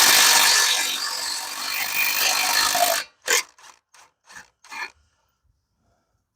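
A handheld power tool, such as a cordless drill or impact driver, runs hard for about three seconds and then gives a handful of short trigger bursts before stopping. This is the work of taking the front wheel off a mini bike.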